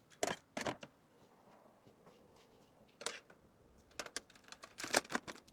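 Small merchandise items and their packaging being handled and set down: short scattered rustles and clicks, two near the start, one about three seconds in and a cluster near the end.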